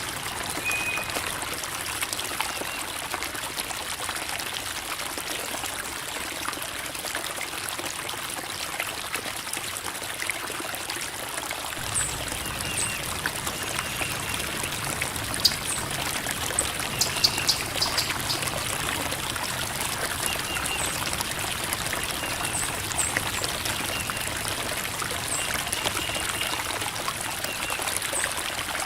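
Creek water babbling and trickling over rocks in a steady rush, with a few short high chirps scattered through it.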